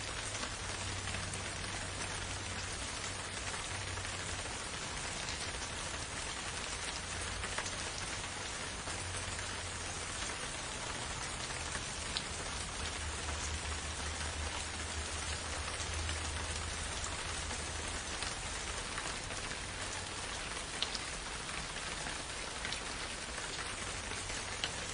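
Steady rain falling, an even hiss with now and then a single louder drop ticking. A faint low rumble swells and fades underneath.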